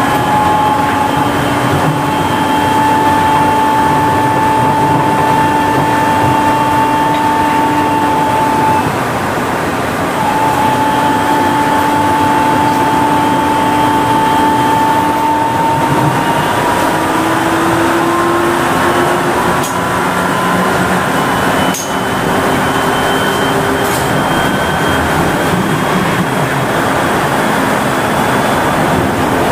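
Kanazawa Seaside Line 2000 series rubber-tyred automated guideway train running, heard from inside the car. The electric traction-motor whine holds steady, breaks off briefly about nine seconds in, then comes back and slowly rises in pitch, over a constant rumble of the rubber tyres on the guideway. There is one short knock a little past twenty seconds in.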